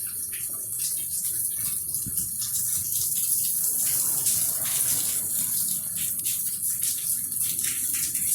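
Steady rain falling: a constant hiss with many small drop hits.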